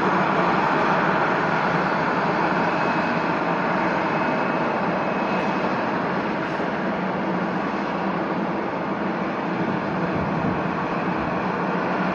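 Jet airliner engines running with a loud, steady rush that eases slightly in the second half.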